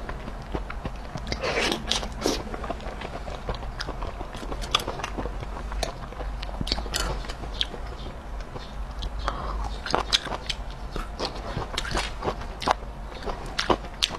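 Close-miked chewing and biting of spicy fried skewered food (zha chuan), a steady run of short sharp mouth clicks and smacks.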